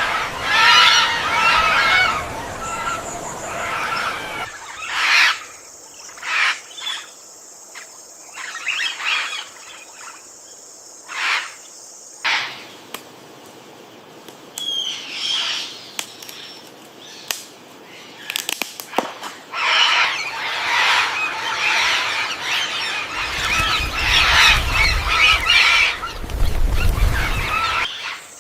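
Birds calling, chirping and squawking in loud chattering bursts, with a quieter middle stretch of short separate calls over a steady high-pitched tone.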